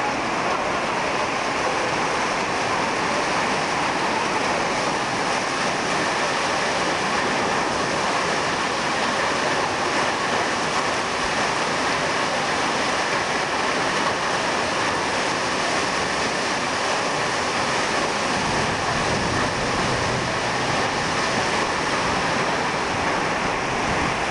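Heavy hailstorm: hail and rain pouring down hard in a steady, dense rush of noise that does not let up.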